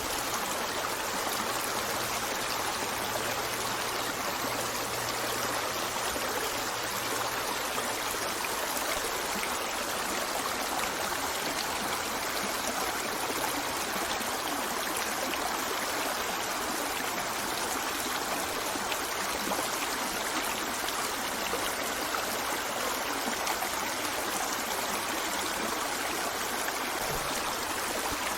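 A stream of water running steadily, a continuous even rush with trickling.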